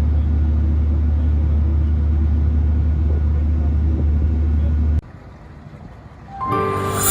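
Steady low engine drone, unchanging, cutting off abruptly about five seconds in; music starts near the end.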